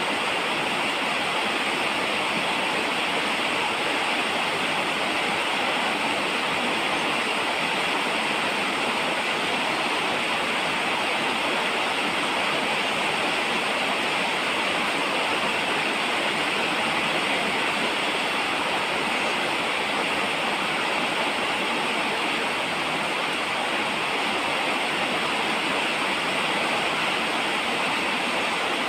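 Steady falling rain, an even, unbroken hiss.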